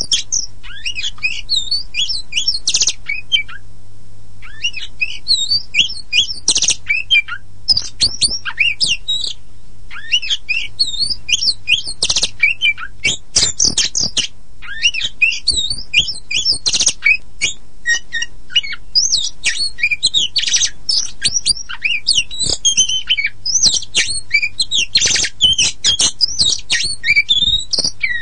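Oriental magpie-robin (black-and-white kacer poci) singing a fast, unbroken run of varied chirps, whistles and harsh notes, pausing briefly about four seconds in and again around ten seconds in. A faint steady hum lies underneath.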